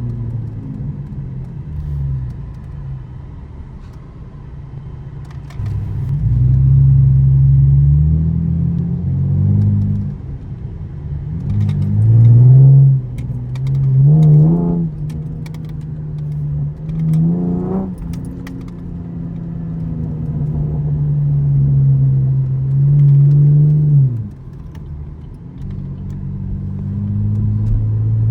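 2013 Camaro LS's 3.6-litre V6 accelerating through the gears under manual shifting: revs climb and drop at each shift. Three hard pulls to high revs come in quick succession midway, then the engine eases off before pulling again near the end.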